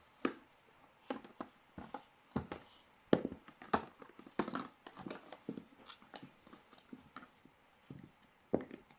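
Irregular light clicks and knocks, two or three a second, from something being handled by hand.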